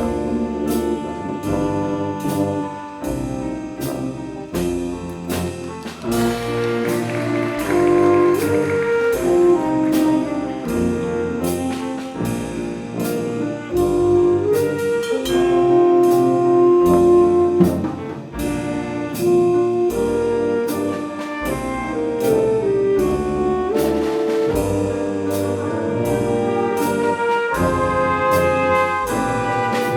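High school jazz ensemble playing a tune: horns carry the melody over a drum kit keeping a steady beat.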